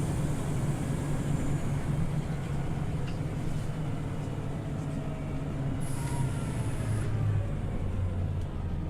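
Inside a Scania OmniLink CL94UB city bus on the move: a steady engine drone with road noise, the engine note dropping to a lower hum about seven seconds in. A thin high tone sounds for about a second around six seconds in.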